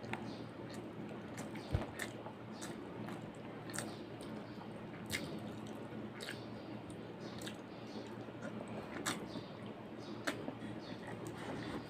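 Close-up eating sounds: chewing with wet mouth clicks at irregular intervals, and soft squishing as food is picked up by hand, over a steady low hum.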